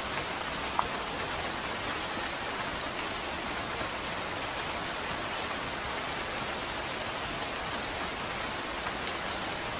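Steady rainfall with individual drops ticking now and then, one louder drop about a second in.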